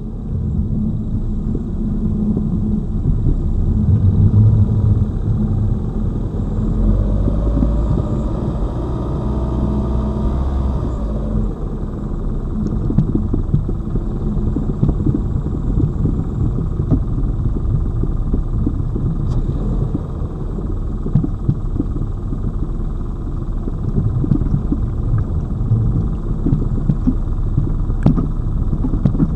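Lada Vesta Cross driving over a bumpy road: a steady low rumble of engine and tyres with many small thuds from the bumps. The suspension is being listened to for the knock that a newly replaced right shock absorber was meant to cure.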